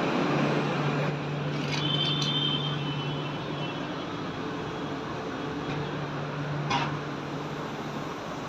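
Air conditioner unit running: a steady low hum over an even fan-like rushing, the hum fading briefly around the middle and coming back. A short high squeak about two seconds in and a single click near the end.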